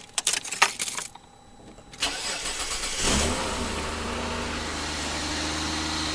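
A few clicks and rattles, then a Mitsubishi Diamante's V6 cranks on the starter for about a second. It catches with a brief rev about three seconds in and settles into a steady idle. This is the first start after an oil change, run to fill the new oil filter.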